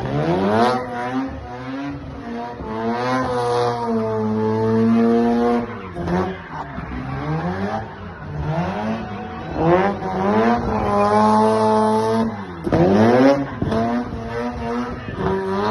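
Race car's 13B rotary engine being revved hard again and again while doing donuts, its pitch climbing and dropping about five times and sometimes held high for a second or two, with tyres squealing as the car spins.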